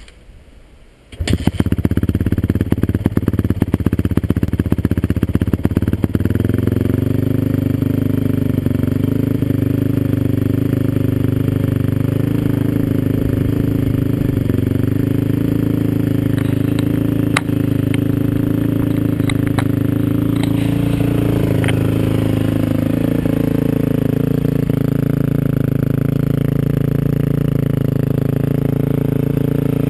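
2006 Honda CRF450R's single-cylinder four-stroke engine with a White Bros slip-on exhaust catching about a second in, running fast and uneven for a few seconds, then settling into a steady idle. The idle drops slightly in pitch about two-thirds of the way through.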